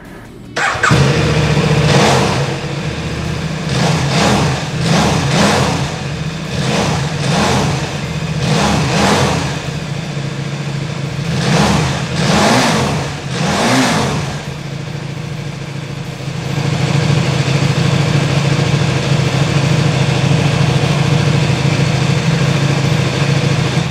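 KTM RC8 1190's V-twin engine firing up about half a second in, then revved repeatedly in short throttle blips, each rising and falling, through the first fourteen seconds or so before settling to a steady idle.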